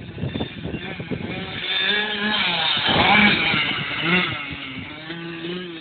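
Kawasaki KX-85 two-stroke dirt bike engine revving up and easing off, loudest about three seconds in, then settling to a steadier note.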